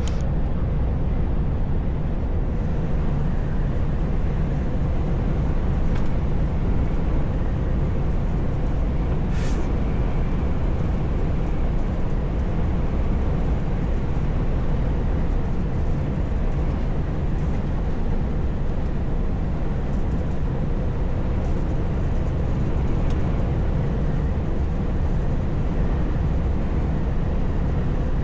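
Heavy truck driving at a steady, slow speed, heard from inside the cab: a constant low engine and road rumble with no change in pitch.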